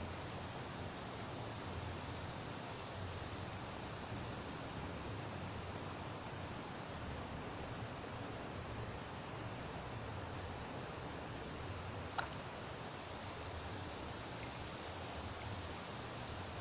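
Insects trilling on one steady high note over a steady, even rush of river water, with a single sharp click about twelve seconds in.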